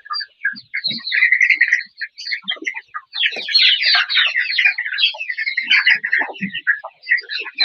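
A flock of chickens calling together in a dense chatter of many short high chirps, busiest from about three seconds in.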